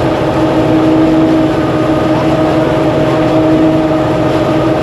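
Engine of a rice threshing machine running at a steady speed, a continuous loud hum.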